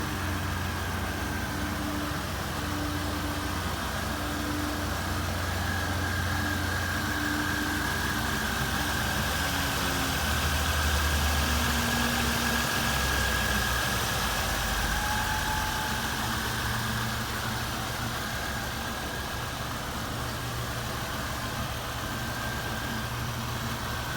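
1999 Pontiac Firebird's 3800 V6 engine idling steadily during an engine test. Its idle speed shifts slightly partway through, and a faint steady high whine runs alongside.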